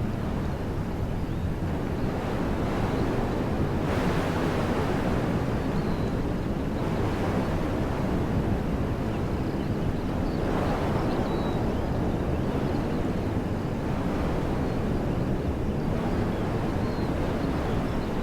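Wind blowing through woodland trees, a steady rush that swells in gusts every few seconds, with a few faint bird chirps.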